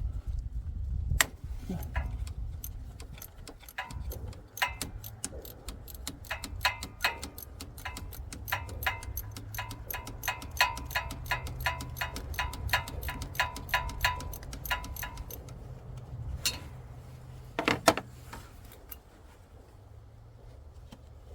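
Ratchet wrench clicking in a long, even run of rapid strokes while backing off the 12 mm nut on the starter's power terminal, with a few separate metallic knocks before and after.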